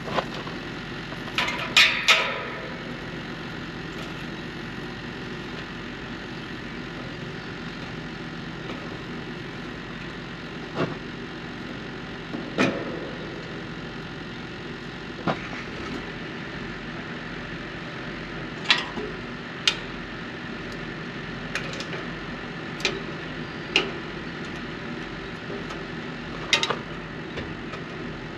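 A truck's diesel engine idling steadily, with scattered sharp metallic clanks and clicks of hand tools on the exhaust stack bracket as a straight-pipe section is refitted.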